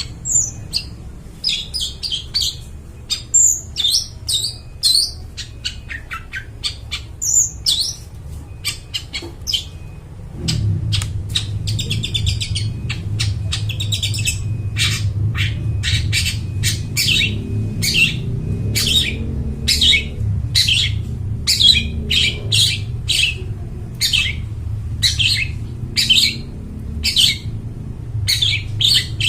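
Long-tailed shrike (cendet) singing loudly: a varied run of chirps and harsh squawky notes, settling about halfway into short repeated calls at roughly two a second. A steady low hum joins underneath about ten seconds in.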